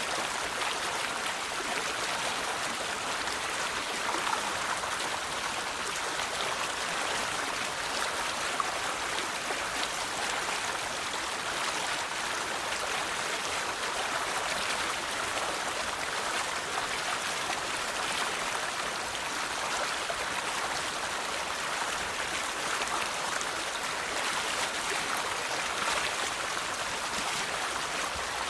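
River water flowing steadily, a continuous rushing and splashing with fine droplet spatters.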